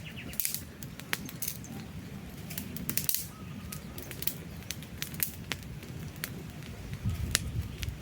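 Wood campfire burning, crackling with irregular sharp pops and snaps over a low, steady rumble of flames.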